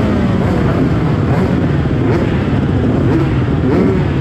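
Several motocross bike engines running at once, their pitches rising and falling over one another as the riders rev and shift.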